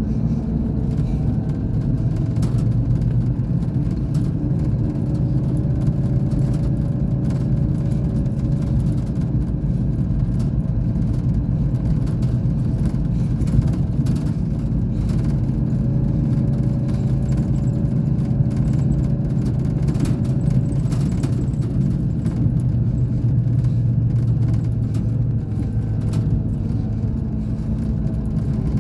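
Scania K420 bus engine running under way, a steady low drone whose pitch rises slightly about a second in and eases near the end, with scattered light clicks and rattles.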